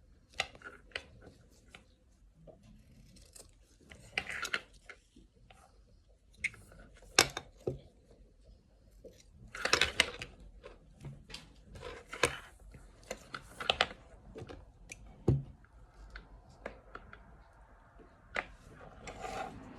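Scissors snipping the end off a dog collar's webbing: irregular single snips and small handling clicks, with a few louder cuts spread through.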